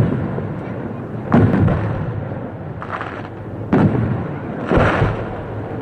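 Aerial firework shells bursting overhead. There are sharp booms about a second and a half in and just before four seconds, a fainter pop around three seconds, and a longer burst near five seconds. Steady noise from strong wind and rain lies under them.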